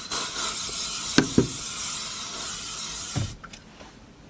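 Makeup setting spray misted onto the face: one continuous hiss lasting about three seconds that cuts off suddenly.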